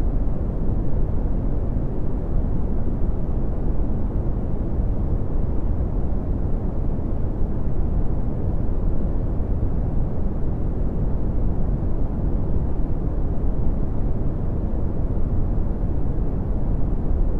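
Red (Brownian) noise: a steady, deep rumbling hiss, strongest in the bass and fading off toward the treble, with no changes or events.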